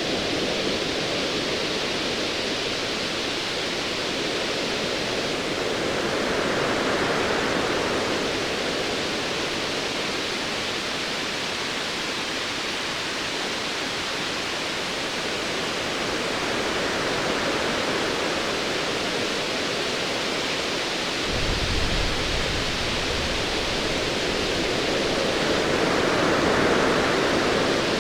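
Sea waves washing in a steady rush that swells and eases every several seconds. About three-quarters of the way through, a low rumble of distant thunder comes in and continues underneath.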